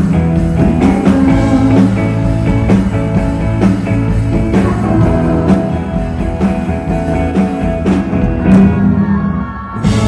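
Live rock band playing, with electric guitars and drums keeping a steady beat; the music thins out briefly near the end.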